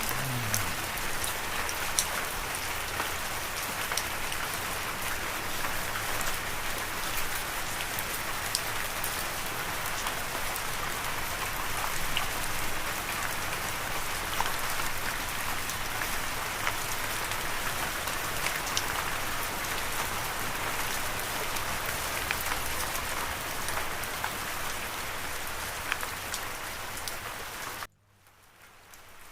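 Steady rain falling, with scattered sharp drop hits. Near the end it cuts out suddenly, then slowly returns.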